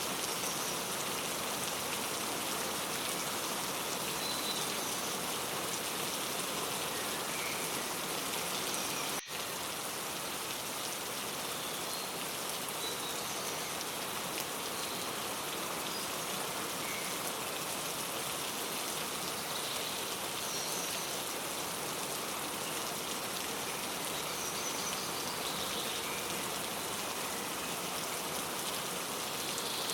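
Steady rain falling, with scattered short bird chirps over it and a momentary dropout about nine seconds in.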